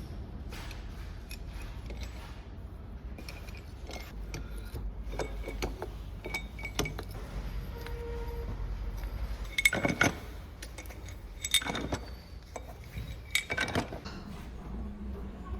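Metal engine parts and hand tools clinking and clanking as they are handled and fitted, in irregular taps with a few louder clanks in the second half, over a steady low workshop hum.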